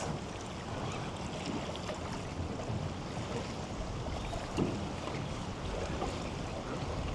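Steady rushing of a flooding river's high water.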